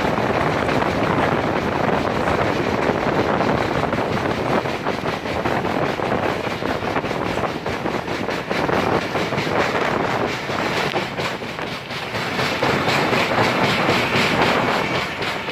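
Express train running at speed, wheels clattering over the rails under a steady rush of noise.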